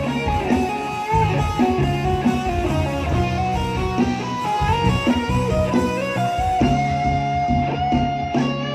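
Live band playing an instrumental passage, with electric guitar and bass guitar over a steady beat and a stepping melody of held notes.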